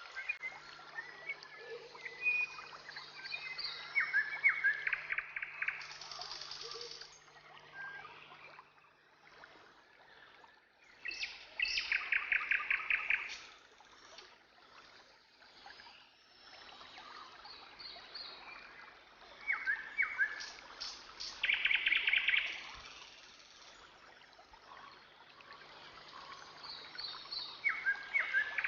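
Birds chirping and calling over a steady background hiss, with a rapid trilling call that comes back several times.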